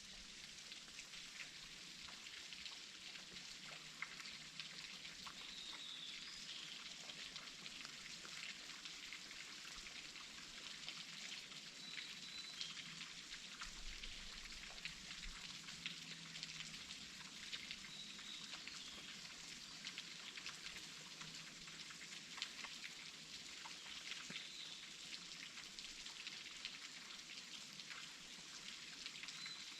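Waterfall splashing: a steady hiss of falling water full of fine spatters, with a faint short high chirp recurring every few seconds.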